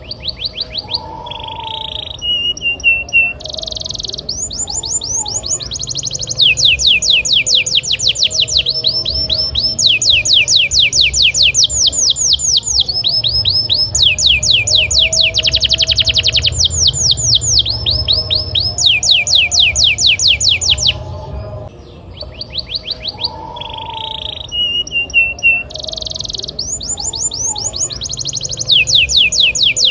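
Canary singing a long, continuous song made of fast trills: runs of rapidly repeated downward-sweeping high notes, many per second, switching from one roll to the next. A low steady hum runs underneath.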